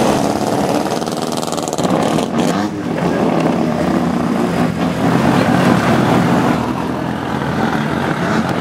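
Several modified drift cars' engines running at low speed as the cars roll past one after another. The revs rise and fall a little about two to three seconds in.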